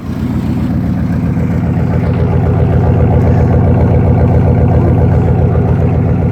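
Straight-piped 5.2 L (318) Magnum V8 of a 1997 Dodge Dakota Sport running loud, with a rapid, rough exhaust pulse. It grows louder over the first two seconds or so, then holds steady.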